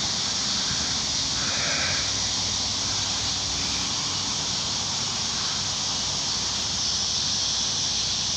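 Steady high-pitched drone of a summer insect chorus, with a crow cawing once about two seconds in.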